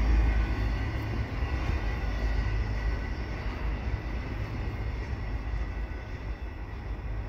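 Double-stack intermodal freight train's wheels rumbling over the rails as its last well cars pass and move away, the sound fading steadily.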